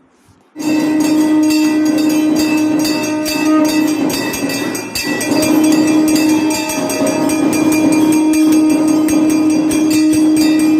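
Temple aarti sounds: bells clanging rapidly over a steady, held horn-like droning tone that dips briefly about halfway through.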